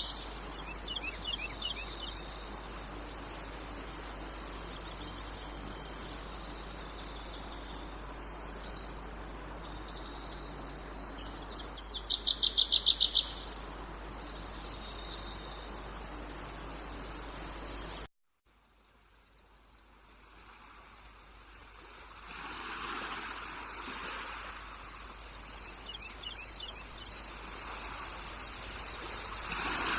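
Crickets trilling in a steady high chorus, with a louder pulsed chirping series about twelve seconds in. The sound cuts out briefly past the middle, then another cricket chorus fades back in, with chirps repeating about twice a second.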